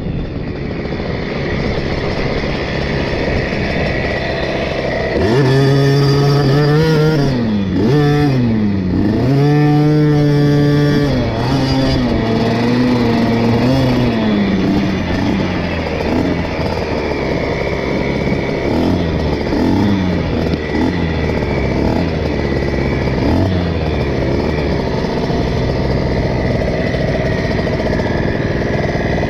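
KTM 50 SX's single-cylinder two-stroke engine being ridden, its revs rising and falling over and over as the throttle is opened and closed, loudest in a run of hard revs about five to eleven seconds in.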